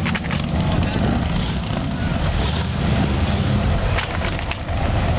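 A car engine idling close by: a steady low rumble with rapid clicking running through it.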